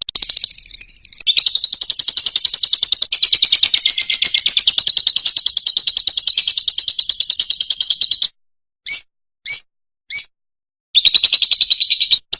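Fischer's lovebird singing: a long, rapid chattering trill for about eight seconds, then three short separate chirps, then the trill starts again near the end.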